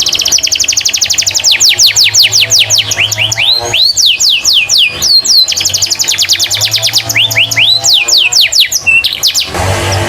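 Domestic canary singing a long, fast song: rapid trills of repeated downward-sweeping chirps, twice broken by slower, wider swooping notes before the fast trill resumes.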